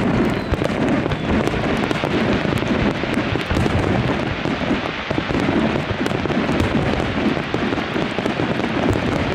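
Dense barrage of aerial fireworks bursting continuously, a rapid run of bangs and crackles with no break.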